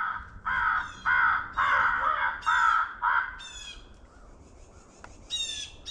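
A crow cawing in a quick series of about six caws, followed a little over a second later by higher, harsher squawking calls about five seconds in.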